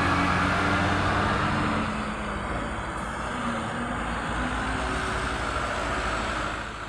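Heavy truck engine running close by with tyre and road noise; its engine note fades about two seconds in, leaving the road noise.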